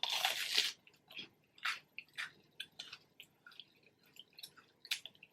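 Close-up mouth sounds of someone eating a fried apple pie: a noisy bite lasting under a second at the start, then wet chewing with many small clicks and smacks.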